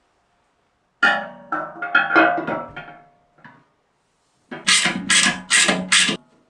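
Repeated knocks on metal, each with a short ringing tone: an irregular run of blows, then four even, harder strikes about half a second apart.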